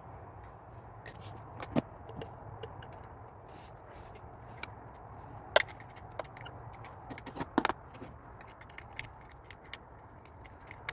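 Scattered light clicks and metallic clinks of hand tools, socket and extension, being worked around the coil packs and spark plugs of a Mercedes M112 V6, with a sharper clink midway and a short cluster a couple of seconds later.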